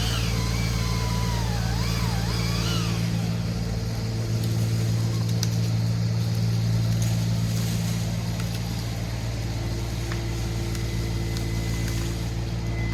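Mini skid steer engine running steadily, with a wavering high whistle over it for the first few seconds.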